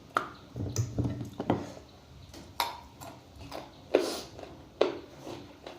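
Close-miked eating sounds: wet chewing with sharp lip smacks, about one every second.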